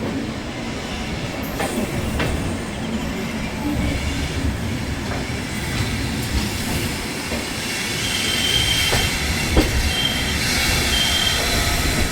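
Coaches of a departing express passenger train rolling over the rails with a steady rumble and scattered sharp knocks as the wheels cross rail joints. Short high-pitched wheel squeals come and go in the second half.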